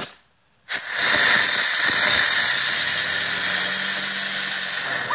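A small ground firework lit and burning: after a short click, a loud steady spraying hiss starts under a second in and runs about four seconds before cutting off.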